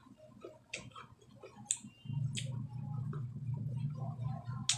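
Close-up mouth sounds of chewing raw fruit slices: scattered wet clicks and crunches. A steady low hum starts about two seconds in.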